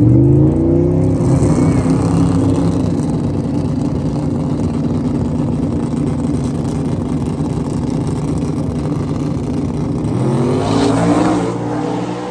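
Drag-racing 4x4 pickup trucks at full throttle: engines rise steeply in pitch at the start, then a heavy engine rumble slowly fades away down the track. A second engine revs up with a rising pitch near the end.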